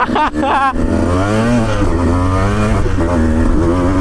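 Dirt bike engine running under throttle, its note rising and falling as the revs change.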